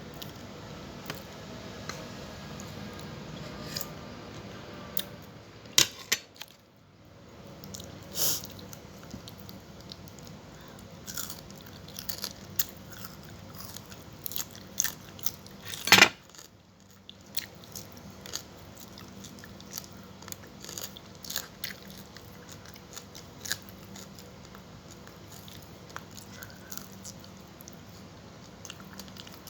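A person chewing and biting food close to the microphone, with crunching and many sharp clicks. The loudest clicks come about six and sixteen seconds in.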